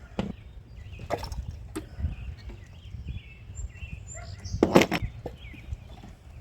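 Scattered clicks and knocks of hands and tools working loose ignition coils in a truck's engine bay, with one louder knock a little before the end. Birds chirp faintly over a low background rumble.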